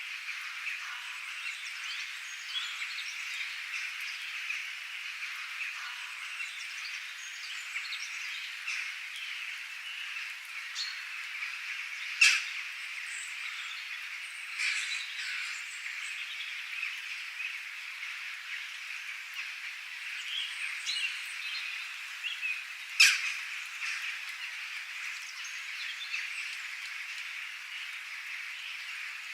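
Wild birds chirping and calling over a dense, steady chorus of small calls, with a few louder, sharp calls standing out: one near the middle and one about three quarters through.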